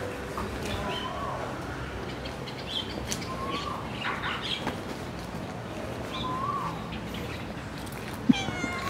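Small birds chirping, with short rising-and-falling calls every couple of seconds. Near the end a cat meows once, and there is a single sharp knock.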